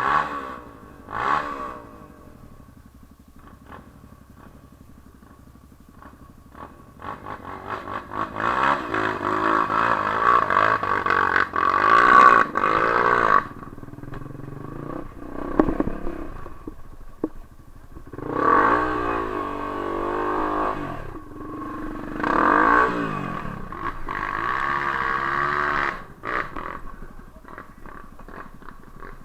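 Off-road trail motorcycle engine revving in several long surges, its pitch rising and falling. Between the surges it runs at low revs.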